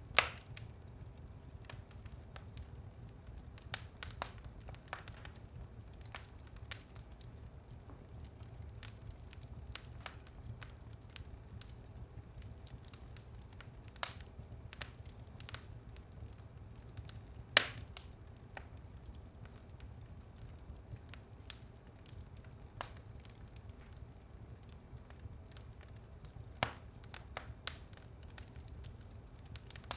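Wood fire burning in a fireplace with a low, steady rumble and irregular crackles and sharp pops; the loudest pops come just after the start, about halfway through, and a little over halfway.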